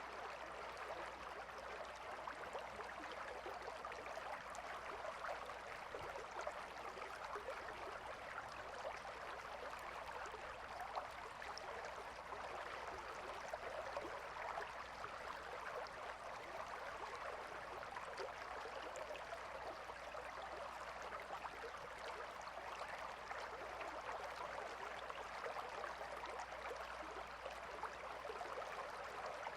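A calm river flowing steadily, its water babbling and trickling without pause.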